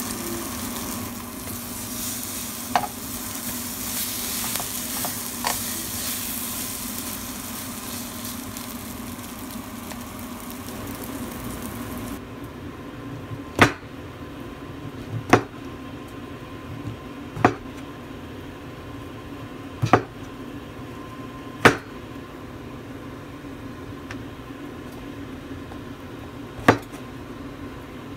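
Slice of bread sizzling steadily in a grill pan. About twelve seconds in the sizzle stops and a knife slices king oyster mushrooms on a cutting board: six sharp knocks of the blade reaching the board, about two seconds apart.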